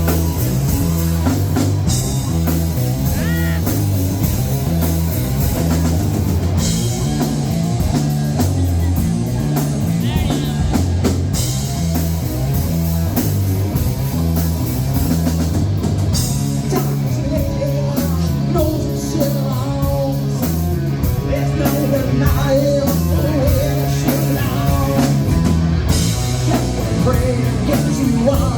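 A rock band playing live, with electric guitar, bass and a drum kit. From about halfway through, a voice that may be singing comes in over the band.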